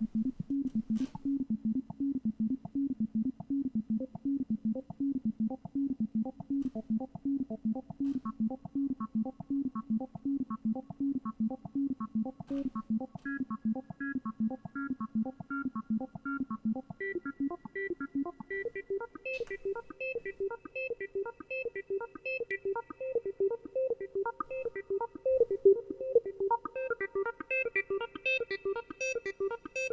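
Waldorf Iridium synthesizer playing a step-sequenced pattern of short, quickly repeating notes, with its wavetable position modulated from step to step. Higher notes join in as it runs, and the main line moves up in pitch about two-thirds of the way through.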